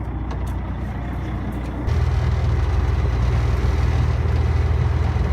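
Fishing boat's engine running, a steady low drone that steps up to a louder, higher-revving run about two seconds in as the throttle is opened.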